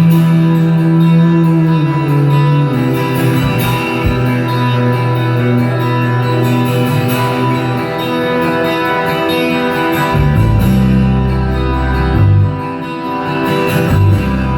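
Live rock band playing, recorded from the audience: sustained guitar chords ring over held notes, and a heavy low bass comes in about ten seconds in.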